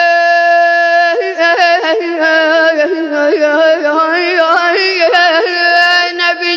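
A boy's solo voice chanting a Shia religious lament in the radood style, unaccompanied. He holds one long note for about a second, then breaks into rapid ornamented turns and trills.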